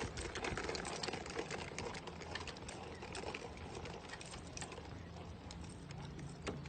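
Rapid, irregular clicking and ticking over a steady background noise, with a low hum coming in near the end.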